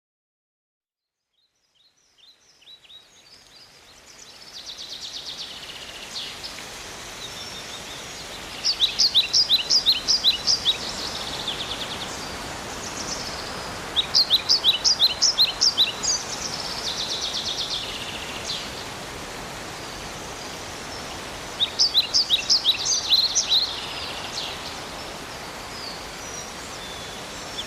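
A songbird singing in short phrases of quick, high, downward-sweeping notes, three phrases a few seconds apart, over a steady background hiss of the woods that fades in during the first few seconds.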